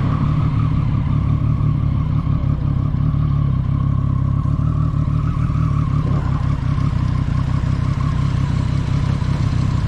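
Motorcycle engine running steadily at an even pitch, with no revving up or down.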